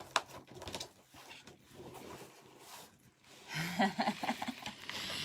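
Plastic deco mesh crinkling and rustling as it is scrunched by hand, then a short wordless voice sound about three and a half seconds in.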